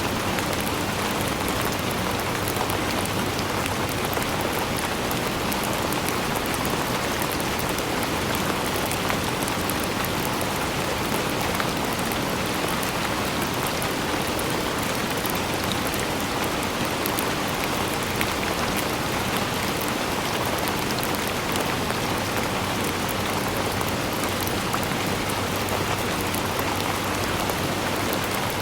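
Steady rainfall, many fine drops pattering on surfaces in an even hiss.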